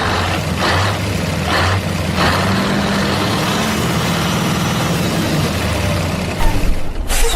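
A heavy truck engine idling with a steady low hum, broken by short hisses about a second in, at two seconds, and near the end.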